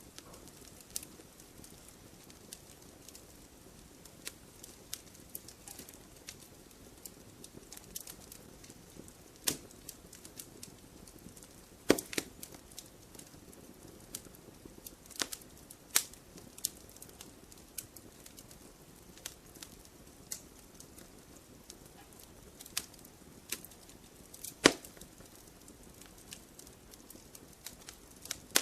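Wood fire crackling in a fireplace: a soft steady hiss of flame with scattered sharp snaps and pops, a few of them much louder, the biggest near the middle and about three quarters of the way through.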